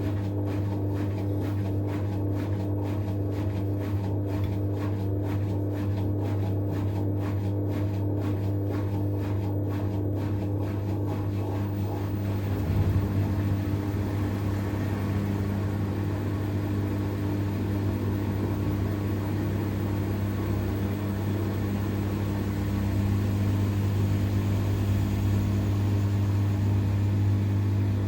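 Miele Professional PW 6065 Vario washing machine in its first interim spin: the drum spinning at speed, with a steady motor hum that grows slightly louder about 23 seconds in.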